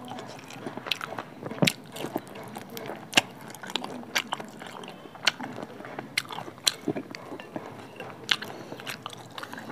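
Close-miked chewing of juicy pork curry and rice, with wet mouth clicks and smacks at irregular intervals, roughly one or two a second.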